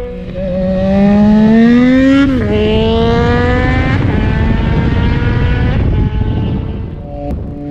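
2018 Yamaha MT-09's 847 cc inline three-cylinder engine, through an M4 RM1 full carbon exhaust with a VcycleNut tune, accelerating hard. Its pitch climbs, drops at an upshift about two seconds in, then climbs again before the throttle is backed off near the end, with wind rushing underneath.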